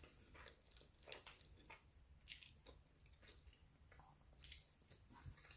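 Faint chewing of a mouthful of baked spaghetti, heard as scattered soft wet clicks.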